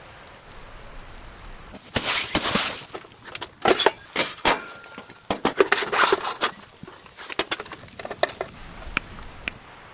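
Clattering and rustling of objects being handled: a dense run of sharp clicks and knocks from about two seconds in, thinning out after about eight seconds.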